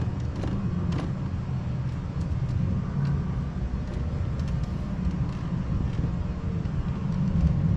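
Steady low background rumble, with a few faint clicks about a second in.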